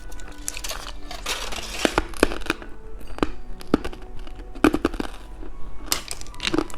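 Plastic candy packaging crinkling and crackling, with a series of sharp clicks as it is handled, over faint background music.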